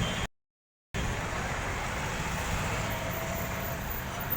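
Steady outdoor traffic noise, with the sound cutting out to dead silence for about half a second shortly after the start.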